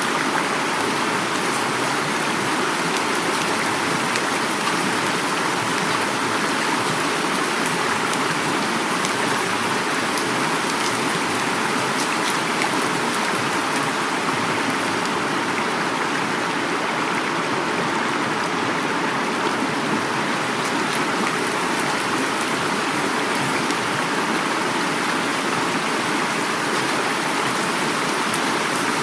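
Heavy rain falling together with a flowing river, a steady, even rush of water with fine drop patter throughout.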